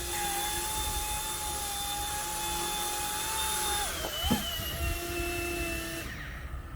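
Electric motors of an Eachine micro RC helicopter whining steadily in flight. The pitch wobbles and drops about four seconds in, with a brief knock, and the whine dies away near the end as the rotors spin down.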